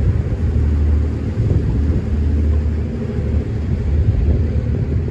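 Low, steady rumble of a river sightseeing boat underway, its level wavering slightly.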